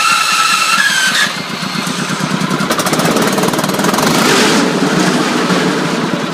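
The soil shaker screen's engine running. A high-pitched whine that had been sounding over it cuts off about a second in, and the engine keeps running with a busy, rattly sound.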